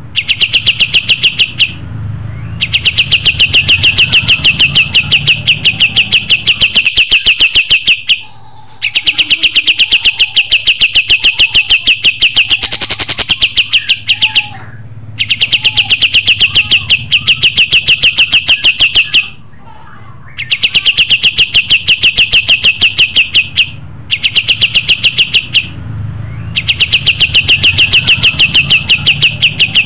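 Pied triller (kapas tembak) singing: long, loud trills of rapid, evenly repeated high notes, each running several seconds, broken by short pauses.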